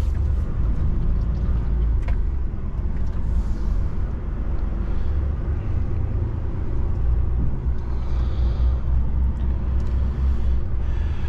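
DAF truck's diesel engine running under way as a steady, deep rumble.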